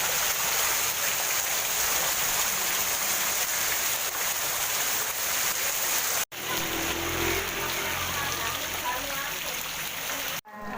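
Heavy rain pouring steadily. The sound cuts off abruptly about six seconds in and comes back as rain with a low rumble and faint voices underneath, then cuts off again just before the end.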